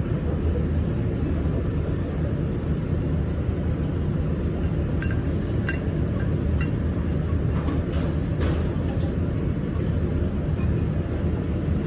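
Steady low rumble of background machinery noise, with a few light clicks and clinks of eating utensils on a ramen bowl scattered through the second half.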